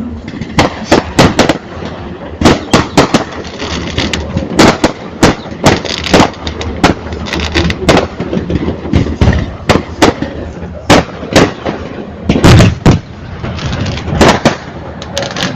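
Firecrackers going off in an irregular string of sharp, loud bangs, about two a second, over a steady background rush.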